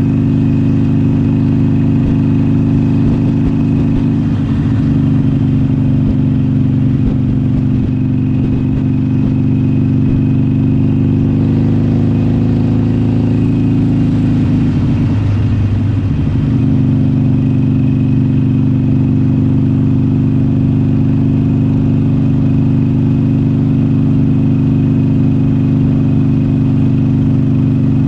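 Harley-Davidson Iron 883's air-cooled V-twin engine running while riding, its note shifting with the throttle and rising a little past the middle before settling back to a steady cruise.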